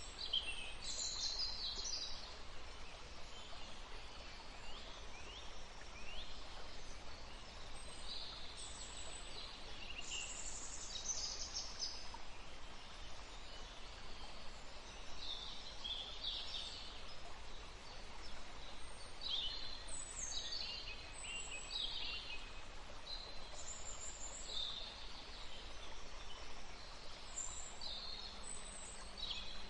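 Woodland stream running with a steady hiss, while several songbirds call over it in many short, mostly falling chirps and whistles.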